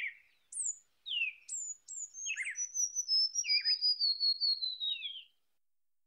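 Small bird singing: a few sharp, high whistles that slur downward, then a long, rapid run of high notes that slowly falls in pitch and stops about five seconds in.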